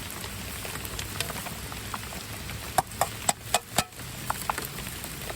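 Steady rain falling on surfaces, with scattered light ticks of drops and, about halfway through, a quick run of about six sharp taps over a second.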